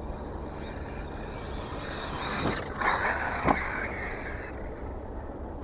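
Arrma Mojave 6S RC truck's electric motor and drivetrain running, louder for a couple of seconds in the middle, with two short knocks. It runs a cheap pinion gear that the owner blames for its rough sound.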